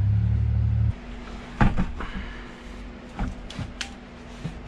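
A power tool's motor running with a low hum that cuts off abruptly about a second in, followed by several sharp clinks and knocks of metal being handled on the wheel rim.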